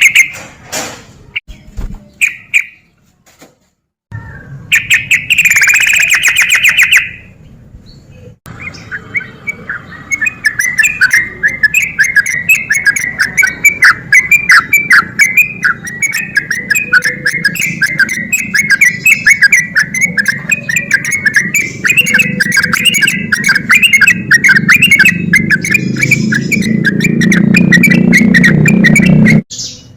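Sooty-headed bulbul (trucuk) singing: a few short calls, then from about ten seconds in a long, fast run of rolling notes, the 'ropel' song. A low rumble underneath grows louder near the end, and both cut off suddenly just before the end.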